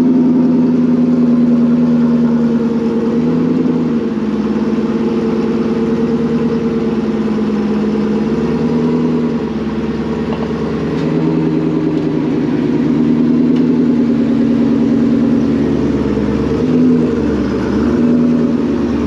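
2012 Shelby GT500 Super Snake's supercharged V8 idling with a deep, steady note; the engine speed sags and picks back up briefly three times.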